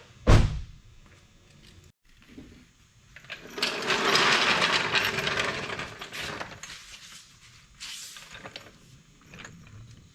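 A sharp metallic clank, then about three seconds of dense hissing, rattling noise from tools at work on a car's brakes, with small scattered clicks of parts being handled.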